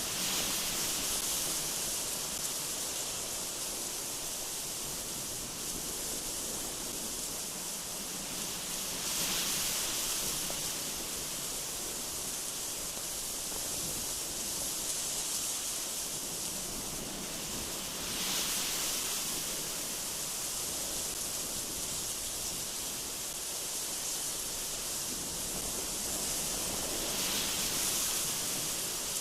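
Gusty wind blowing as a steady high hiss, swelling three times in gusts, about every nine seconds.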